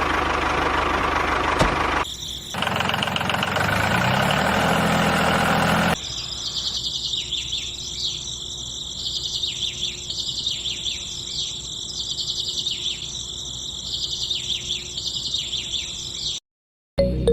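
A small machine running with a steady, noisy whir for about six seconds, then repeated high bird-like chirps over a quieter background.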